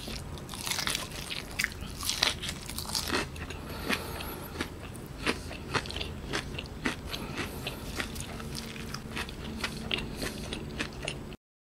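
A person biting and chewing a mouthful of breaded fried-chicken burger, with many irregular crunches and wet mouth clicks. The sound cuts off abruptly to silence just before the end.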